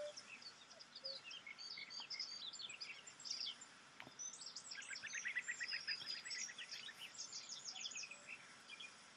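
Several birds singing at once: overlapping quick, high chirps and trills, with a run of rapidly repeated notes about halfway through.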